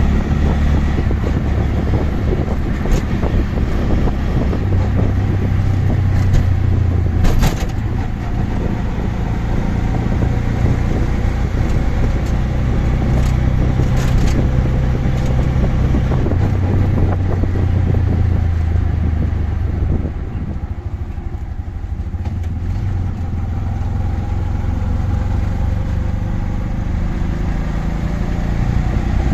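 Auto rickshaw's small engine running under way, with surrounding road traffic. A few brief sharp knocks or rattles come around a quarter and half way through, and the engine drops a little quieter about two-thirds of the way in.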